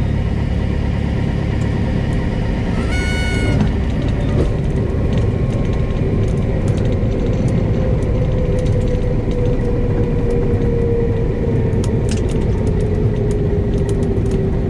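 Cabin sound of a Cessna 172S Skyhawk's four-cylinder Lycoming engine and propeller, a steady low drone, with the engine note slowly falling in pitch in the second half. A brief high horn-like tone sounds about three seconds in, and a few light clicks come near the end.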